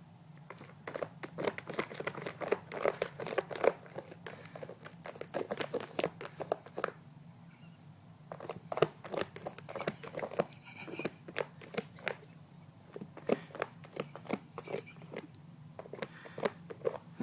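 Quick, irregular clicking and scratching, with two short bursts of high, rapid bird chirping about five and nine seconds in.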